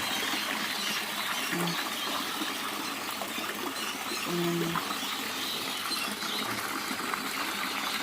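Steady rush of running water in a garden fish pond. Two short low hums come through, about a second and a half in and again near the middle.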